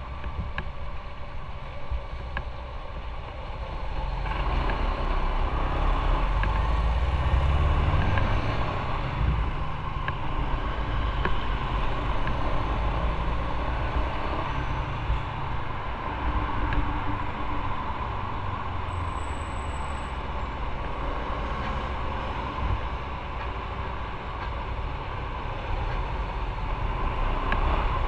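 Motorcycle on the move: engine running under steady wind and road noise, getting louder about four seconds in.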